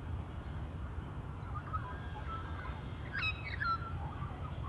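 A bird calling: a few faint short calls, then a louder, two-part call about three seconds in, over a steady low background rumble.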